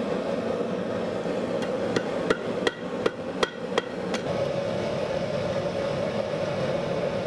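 Blacksmith's hammer striking steel on an anvil: about eight quick blows in a little under three seconds, each with a short metallic ring, over a steady rushing noise.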